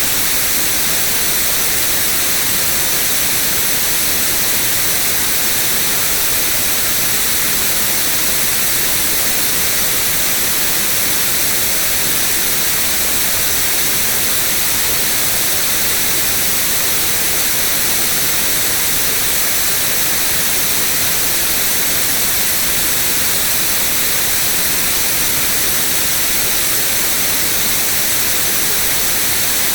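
Synthetic white noise: a steady, loud, even hiss with most of its energy in the high frequencies, unchanging throughout.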